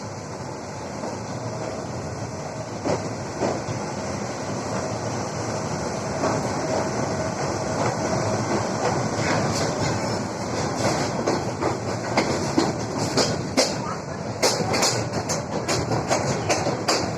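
Train running on the rails: a steady rumble that grows slowly louder, with the wheels clacking over rail joints, the clacks coming thick and fast in the second half.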